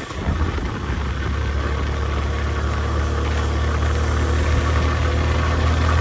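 Motorcycle engine running steadily while riding, with a continuous low hum and noise over it.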